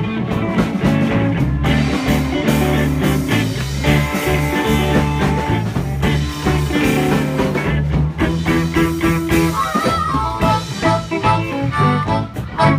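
Live blues band playing an instrumental stretch between sung lines, with electric guitar over a steady bass line.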